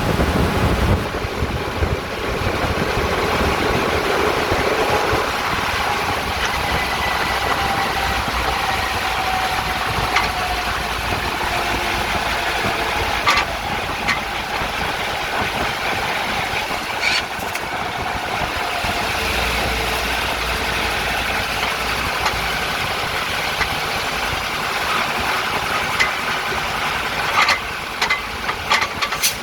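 Setra S80 bus running with a clattering from the rear axle, the rattle the owner is documenting. Sharp knocks stand out now and then over the steady engine noise, several in quick succession near the end.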